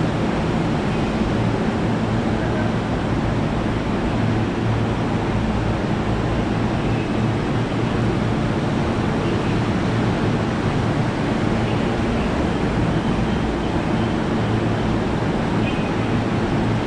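Steady, loud rushing noise with a low steady hum underneath, typical of a train running in a railway station.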